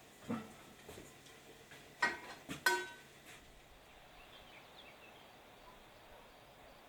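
A few sharp knocks and clinks of hard objects being handled, the loudest pair about two and a half seconds in, the last ringing briefly like metal; then quiet background with a few faint high chirps.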